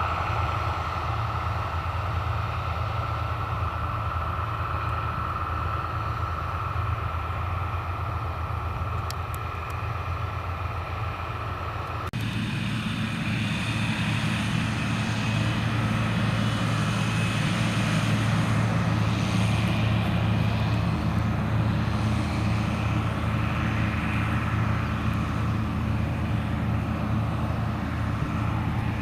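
Heavy harvest machinery running steadily, a combine harvester and tractor engine drone. About twelve seconds in the sound changes abruptly: a steady high whine drops out and the low engine drone becomes louder.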